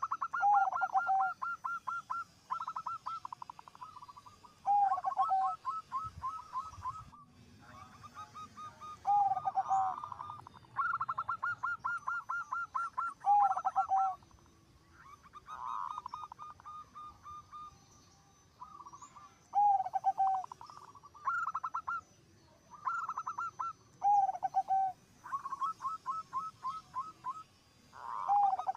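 Zebra doves (perkutut) cooing. Each phrase is a quick run of clipped, rising notes ending in a lower drawn-out coo, and the phrases repeat one after another every two to three seconds.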